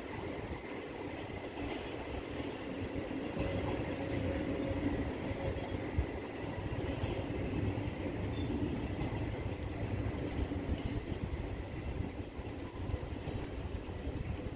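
Empty double-deck car-carrier freight wagons rolling slowly past on the rails, giving a steady rumble of wheels and running gear with a faint thin steady tone above it.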